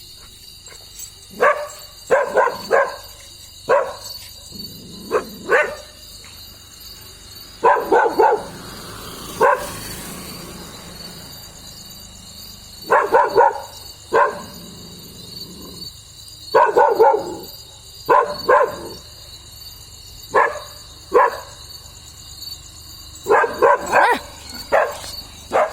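Dog barking in short clusters of two to four barks, repeating every few seconds, over a steady chirring of insects.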